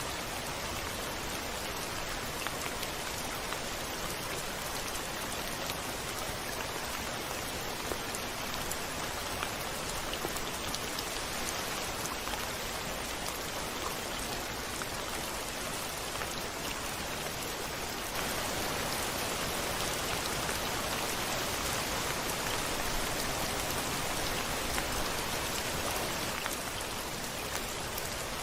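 Steady rain falling, a dense hiss flecked with small drop ticks; it grows louder about two-thirds of the way through and eases back near the end.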